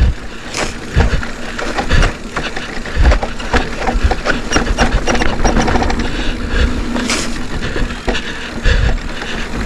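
Mountain bike being ridden over a rough, wet dirt trail: the bike rattling and clicking with frequent knocks, and deep thumps about once a second.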